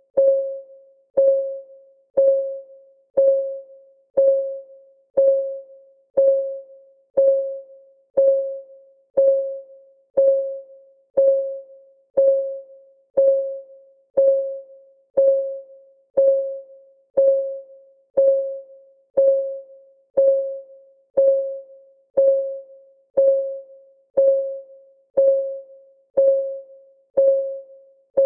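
Countdown timer's ticking sound, one tick a second. Each tick is a short, clear tone at the same pitch that fades quickly.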